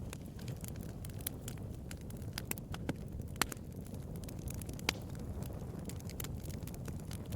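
Bonfire burning: a steady low rumble of flames with irregular crackles and pops of burning wood, two sharper pops about three and a half and five seconds in.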